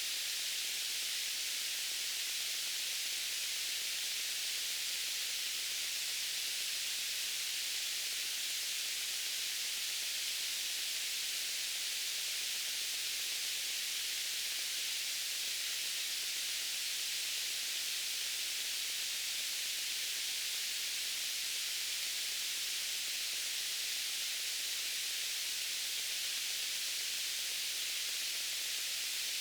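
Steady white noise: a high, even hiss that does not change.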